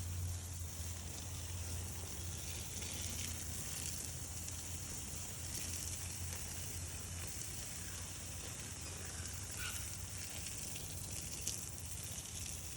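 Steady hiss of water spraying onto a freshly sown garden bed as it is watered, with a low hum that fades about halfway through.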